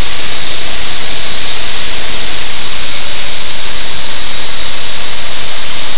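Cessna 185 Skywagon's 300-horsepower engine and propeller at climb power just after takeoff, heard inside the cockpit: a loud, even rush with a steady high whine on top.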